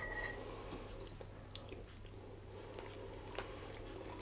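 A person chewing a mouthful of chicken curry, with a couple of faint clicks.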